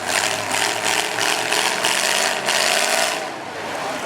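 The starter of a stalled demolition-derby Cadillac cranking the engine in a rapid, rhythmic chug of about four pulses a second. It stops about three seconds in without the engine firing.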